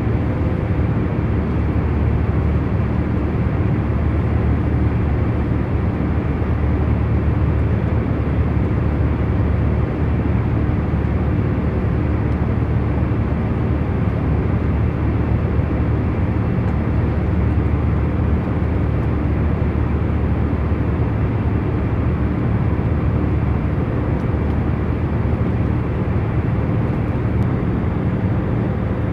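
Airplane cabin in cruising flight: an even, unchanging drone of engine and airflow noise, deep and mostly low in pitch, with a faint steady hum running through it.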